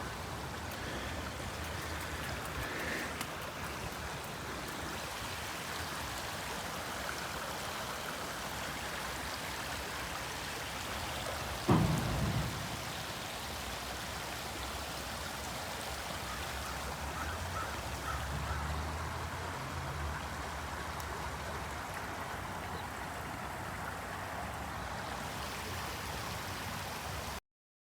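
Small creek's running water, a steady rush, with one short low thump about twelve seconds in. The sound cuts off suddenly near the end.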